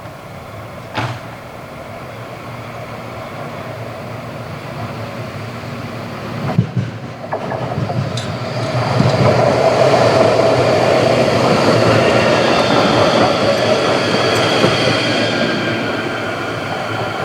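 A tram running on rails and passing close, building steadily to a peak over the second half, with a sharp knock about a second in and a clatter of wheels over rail joints after about six seconds. A high whine sounds over the loudest part.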